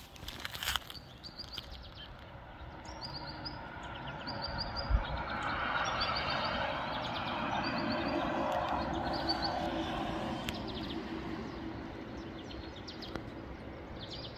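Small songbird chirping in short repeated high trills, over a broad rushing noise that swells and fades, like a vehicle passing. A single low thump about five seconds in.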